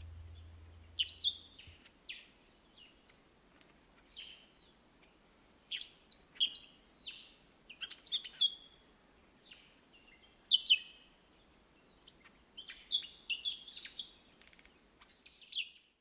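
Small birds chirping: short, high calls that come singly and in quick clusters, loudest around ten seconds in and in a busy run near the end.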